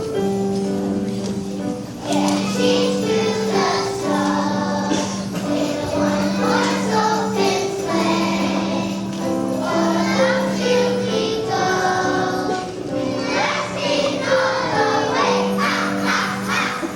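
A choir singing a winter song over instrumental accompaniment, with jingle bells shaken along in rhythm.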